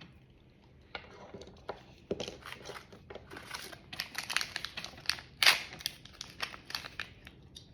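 Thin plastic packaging being crinkled and torn open by hand in irregular crackling bursts, busiest about four to five seconds in.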